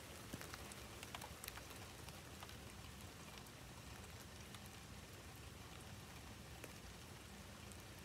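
Rain falling steadily on the lawn and ground, a faint even hiss with scattered sharp ticks of drops hitting close by.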